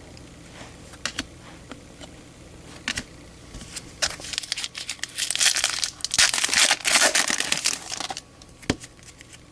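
A foil trading-card pack wrapper being torn open and crinkled, a dense rustling from about four to eight seconds in, after a few light clicks of cards being handled.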